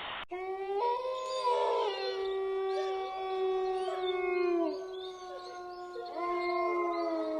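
Dog howling: one long, steady howl of about four seconds, then a second howl that begins about six seconds in, with other howling voices overlapping at times.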